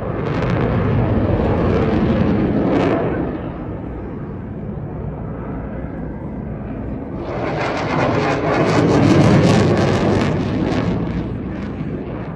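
Jet aircraft in a flying display making loud passes, the engine roar swelling at the start, easing off, then building again to its loudest about two thirds of the way through before fading.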